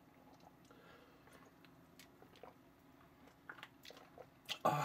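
Faint chewing and mouth sounds of someone eating crunchy pretzels, with small scattered clicks, then a short, louder rush of noise near the end.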